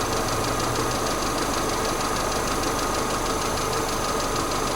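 Peugeot 407's 2.2-litre EW12J4 four-cylinder petrol engine idling steadily.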